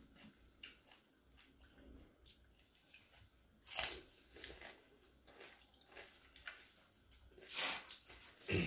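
Crisp pani puri shells being bitten and chewed, full of tamarind water, with small crunching clicks throughout and two louder bursts of crunching, about four seconds in and again near the end.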